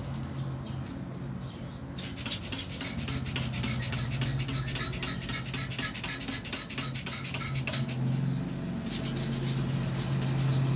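A brush scrubbing soaped air-conditioner parts in quick scratchy strokes, in two spells with a short pause about eight seconds in, over a steady low hum.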